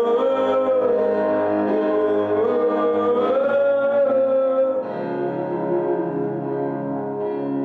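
Worship band music: a long wavering held note, likely sung, over guitar and keyboard chords. About five seconds in it drops to softer sustained chords.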